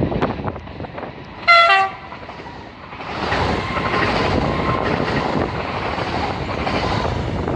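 A train horn gives one short blast, stepping slightly down in pitch as it ends. About three seconds in, a train's running noise builds and then holds steady.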